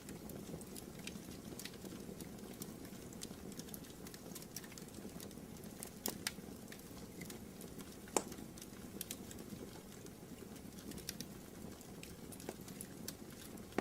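Wood fire burning in a fireplace: a steady low rush of flame with irregular sharp crackles and pops, one louder pop about eight seconds in.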